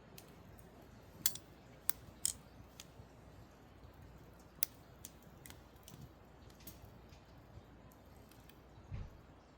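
Pine firewood burning, giving sharp, irregular crackles and pops, several of the loudest in the first two and a half seconds, with a soft low thump near the end.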